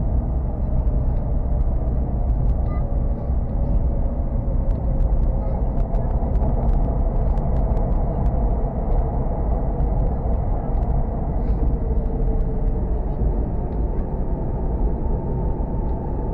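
Hokuriku Shinkansen train running, heard from inside the carriage: a steady low rumble with faint humming tones and scattered light clicks.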